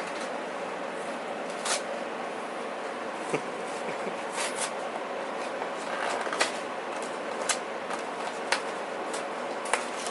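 Plastic snack-cake wrapper being handled and opened: scattered sharp crinkles and clicks, a few in quick succession about halfway through, over a steady background hiss.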